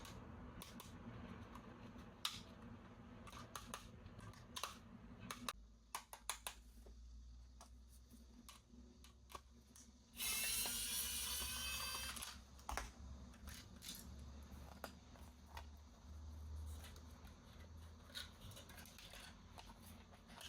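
Scattered clicks and taps of plastic toy parts and packaging being handled. About halfway through there is a louder harsh burst of about two seconds that rises in pitch.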